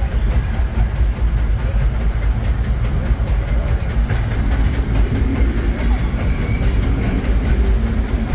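Steady low rumble and rattle of a narrow-gauge steam train's passenger coach rolling along the track, heard from on board.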